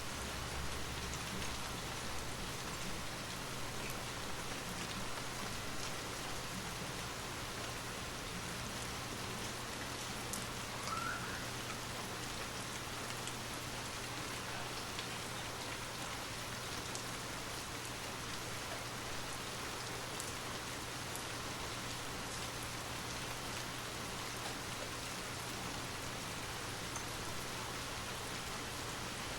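Steady rain falling, an even hiss of drops with scattered faint ticks of individual drops and a low steady hum beneath.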